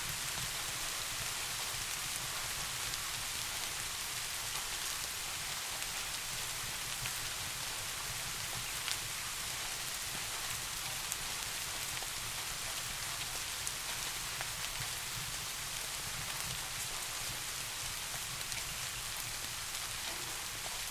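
Steady rain falling, an even hiss with a few sharp single-drop ticks scattered through it, over a low rumble underneath.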